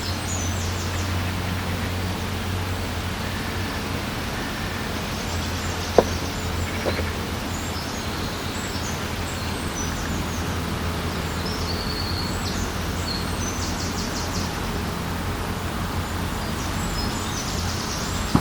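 Lakeside morning ambience: a steady low rumble under small birds chirping on and off. A single sharp click about six seconds in, with a fainter one just after.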